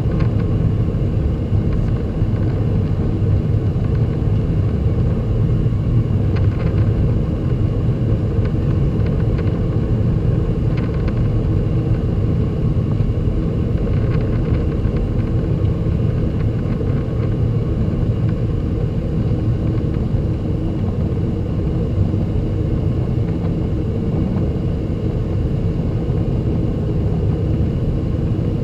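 Boeing 767-300 engines and airflow heard as a steady low rumble inside the cabin during takeoff, with a few faint rattles.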